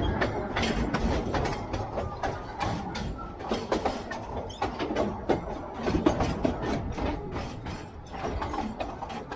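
Narrow-gauge train running on the track: a steady low rumble with frequent irregular knocks and rattles from the wheels and carriages.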